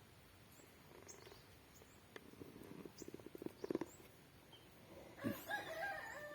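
Animal calls: a rapid rattling run of short sounds in the middle, then a louder drawn-out call with a wavering pitch near the end.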